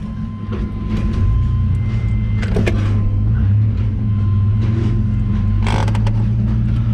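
Heavy engine running steadily with a low drone, a faint steady whine above it, and a few short clicks and knocks.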